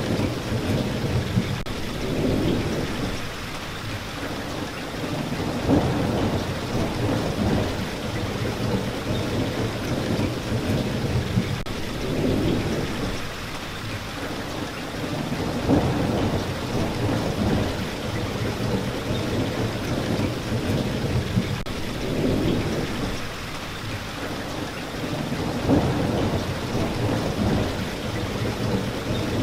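Rain falling steadily, with a low rumble that swells and fades several times.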